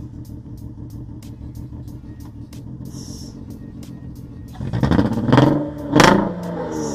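A worn-out Honda Accord's engine idling, then revved hard twice about four and a half seconds in, with the revs falling away after each blip. The engine is logging misfire codes on three cylinders, and the owners call it a 3-banger.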